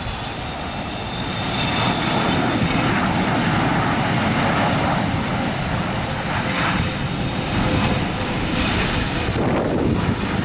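Twin jet engines of a Boeing 777 airliner on approach to land, passing close by. The engine noise grows louder about a second and a half in and then holds steady.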